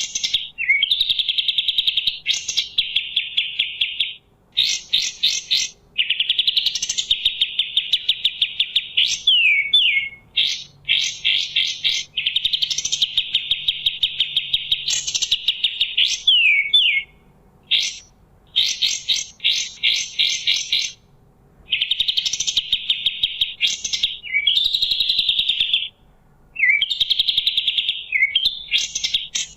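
Kapas tembak bulbul singing in loud, fast, stuttering trills of rapidly repeated notes. The phrases last a few seconds each, with brief pauses between them and an occasional quick swooping note.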